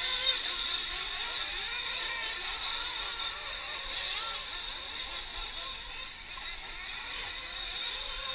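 Several high-revving nitro RC truck engines racing on track, their high-pitched whine rising and falling as they accelerate and back off.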